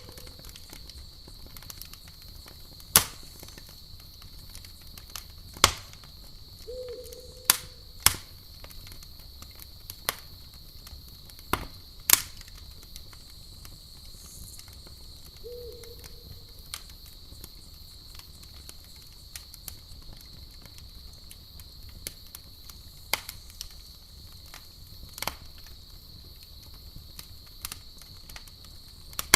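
A campfire crackling, with sharp pops every second or few seconds, over a steady high-pitched drone of crickets.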